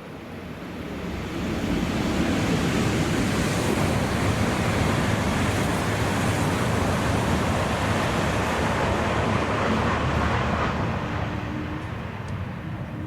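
Shinkansen bullet train passing through the station at high speed: a rushing noise swells up, holds steady for about ten seconds, then fades away, with a faint steady tone near the end.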